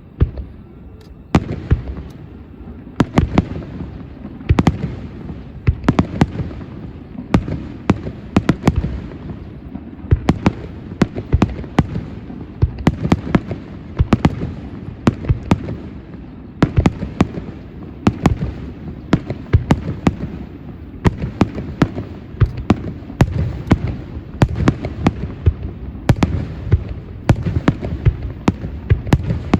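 Aerial fireworks shells bursting in a rapid barrage: sharp bangs several a second over a continuous low rumble.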